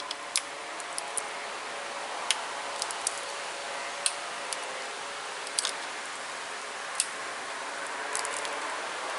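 Pressure flaking a thin flake of tiger chert: irregularly spaced sharp clicks and snaps as small flakes pop off the stone's edge, about a dozen in all.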